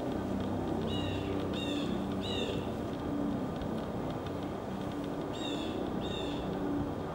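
Small birds calling near the feeders: three short calls about a second in, then two more near the end. A steady low hum runs underneath.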